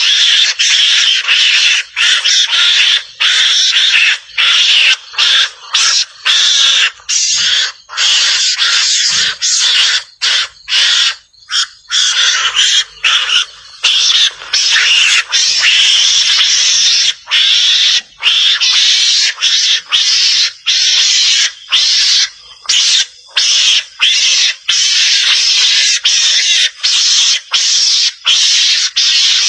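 Javan mongoose (garangan) calls used as a hunting lure: loud, harsh, hissing chatter that goes on almost continuously, broken by short pauses about every second.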